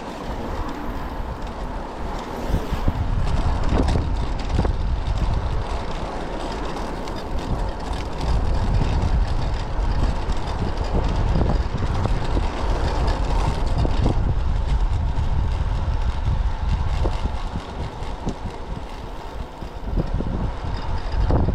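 Typhoon wind buffeting the microphone, a constant low rumble that swells and drops with the gusts.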